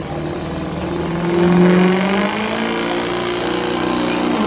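Turbocharged Ford pulling truck's engine running hard under load as it drags the sled. It climbs in pitch and loudness over the first second or so, then holds a steady, loud note.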